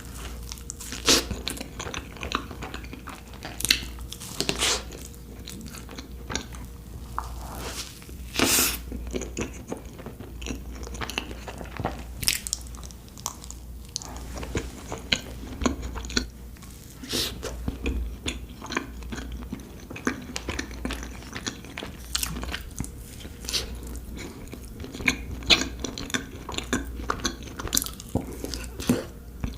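Close-miked eating of cake slices: chewing and biting, with frequent irregular sharp mouth clicks and smacks over a steady low hum.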